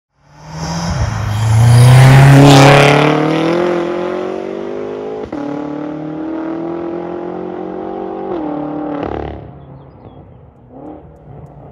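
BMW M6's S63TU twin-turbo V8 with catless downpipes and a resonator-delete exhaust, accelerating hard with the pitch climbing. An upshift about five seconds in briefly drops the pitch before it climbs again, and the engine lets off about eight seconds in.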